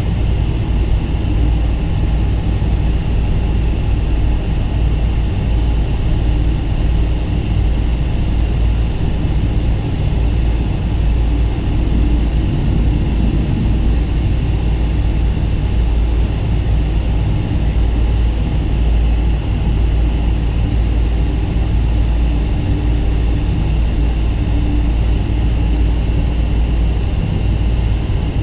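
Steady low roar of a Boeing 777-200's jet engines and the airflow, heard inside the passenger cabin from a window seat.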